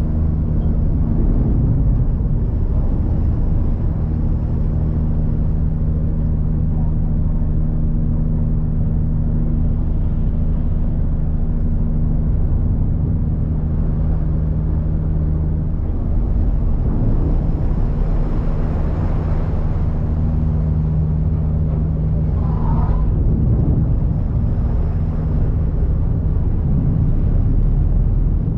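River ferry's engine running with a steady, loud drone under the rush of water and wind. A brief higher tone cuts through about three quarters of the way in.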